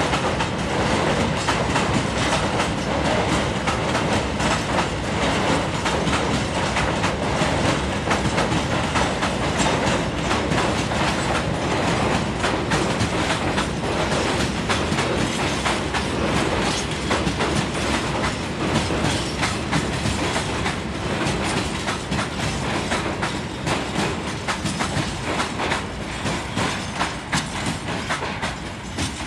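Freight wagons of a coal train rolling past, wheels clacking over the rail joints in a steady rumbling, clattering run, a little quieter near the end.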